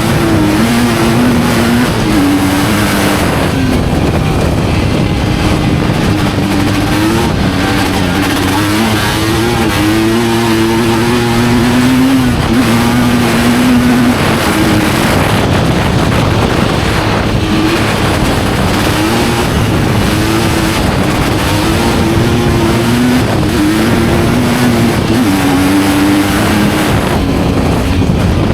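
Studded-tyre ice-racing motorcycle engine running hard, its note rising and falling again and again over a steady rush of noise.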